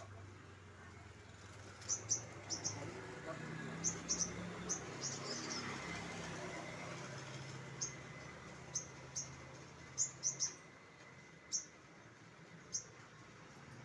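A caged sogon songbird giving short, sharp, high chirps in irregular bursts, some in quick pairs or threes, the active calling the keepers call 'gacor'. A low steady hum runs underneath.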